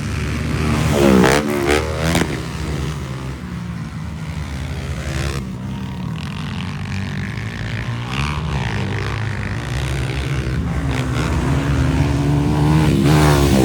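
Motocross motorcycle engines running at race speed, revving up and down, loudest about a second in and again near the end.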